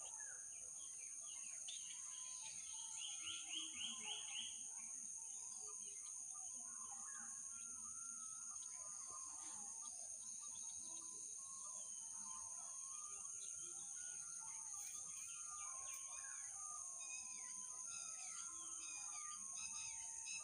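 Several birds chirping and calling with short whistled notes, including a quick run of about eight notes around three seconds in, over a steady high-pitched whine.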